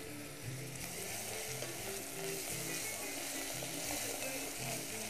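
Lamb and onions sizzling as they fry in a pot, a steady hiss, with soft background music underneath.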